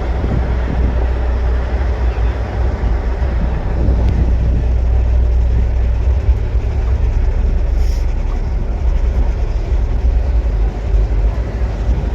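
Strong wind buffeting the microphone: a steady low rumble with a rushing haze above it.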